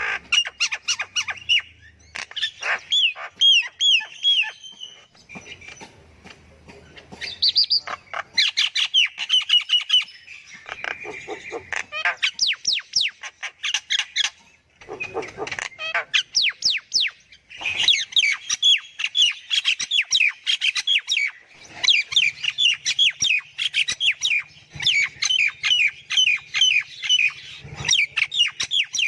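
Myna calling: fast runs of repeated squawks and chirps in bouts, with short pauses between them.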